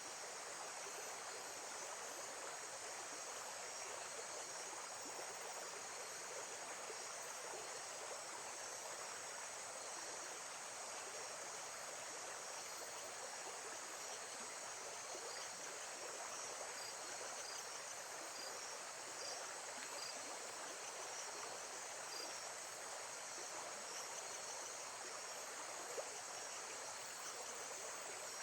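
Steady wash of lake-side water running and lapping, with faint, scattered high insect chirps, like crickets, above it.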